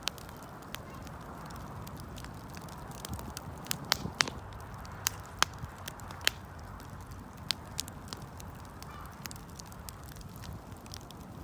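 Wood fire burning, with irregular sharp crackles and pops from the burning wood over a low steady rush of flame.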